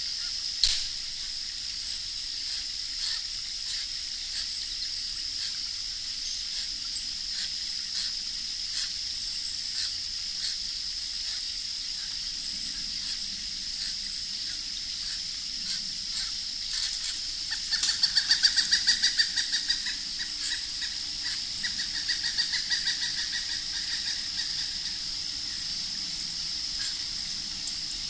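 A bird calls a rapid, evenly spaced run of notes for about two seconds, followed by fainter, looser notes a few seconds later, over a steady high hiss. A single sharp tap sounds near the start.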